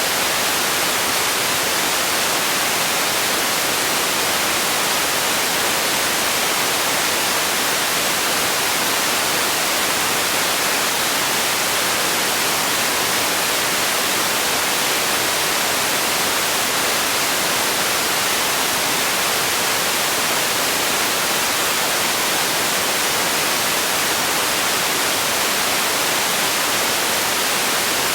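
Steady, unchanging white noise: an even hiss, strongest in the high frequencies and thin in the bass, with no rhythm or variation.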